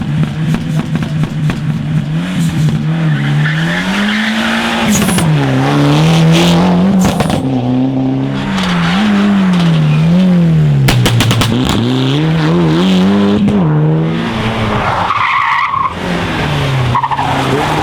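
Rally car engine worked hard, its pitch repeatedly rising and falling through gear changes and lifts of the throttle, with tyres skidding. About eleven seconds in there is a quick run of sharp cracks.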